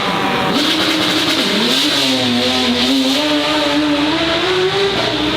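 Race car engine running hard under acceleration. Its pitch drops twice in the first second and a half, then climbs steadily.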